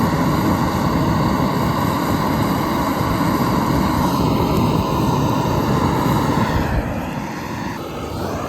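Handheld gas blowtorch running with a steady rushing hiss as its flame is held on damp firewood to light it; the sound eases somewhat about seven seconds in.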